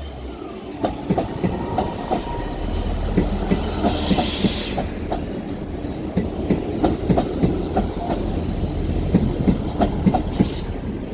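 Class 158 diesel multiple units rolling slowly into the platform: rapid irregular clacking of wheels over rail joints and points over a steady low diesel engine drone, with brief high-pitched wheel squeals about four seconds in and again near the end.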